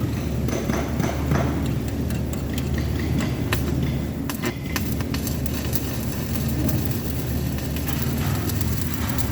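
Steady low machine hum with scattered sharp clicks and taps, most of them about three to five seconds in.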